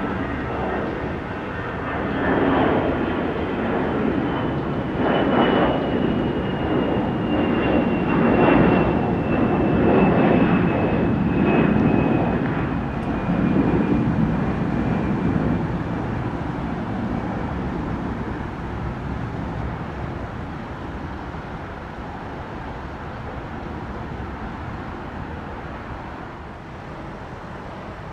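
Jet airliner's engines on departure: the rumble builds, peaks over the first half and fades away, with a thin high whine that slowly falls in pitch as it passes.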